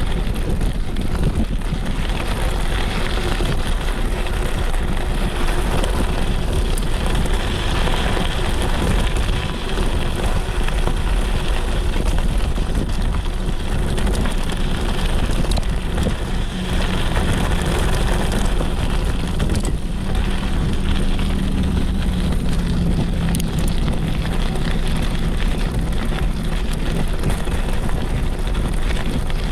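Steady rush of wind on the microphone mixed with the rolling rumble of a mountain bike's tyres on a dirt trail.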